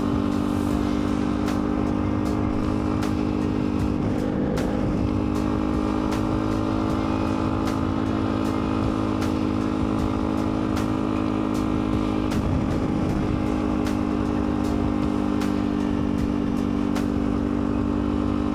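Dirt bike engine running at a steady, even speed while riding, with no revving, and faint sharp ticks about every half second.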